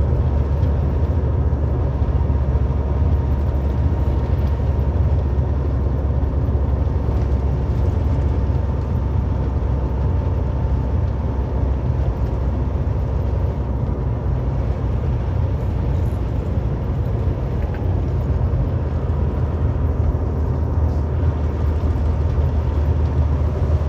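Steady low rumble of a heavily loaded semi-truck's engine and road noise heard inside the cab while cruising on the highway, with a faint steady whine.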